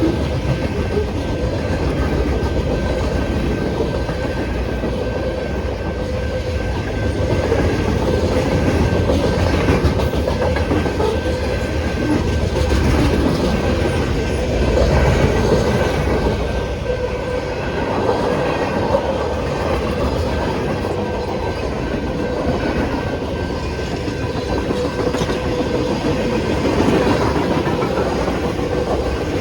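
Freight train cars rolling steadily past at a grade crossing, with a continuous rumble and wheels clacking over the rail joints.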